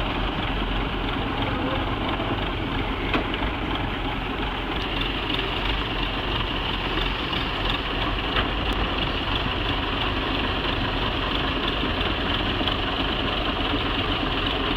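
Heavy vehicle's engine running steadily as it works through a tight turn, with a higher hiss joining about five seconds in.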